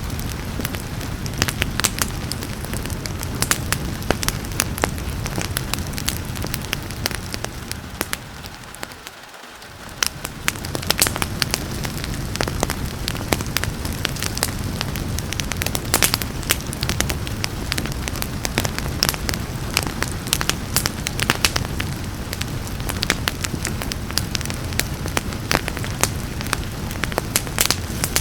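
Fireplace fire crackling, with many scattered sharp pops and snaps over a steady rain hiss. The sound fades down briefly about nine seconds in and comes back up.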